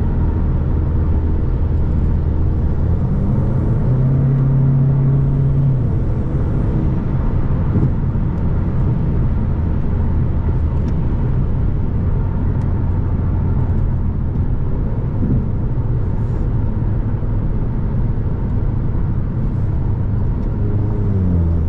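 Car engine running while driving, a steady low drone. The pitch rises about three to four seconds in as the car accelerates, and falls near the end as it slows.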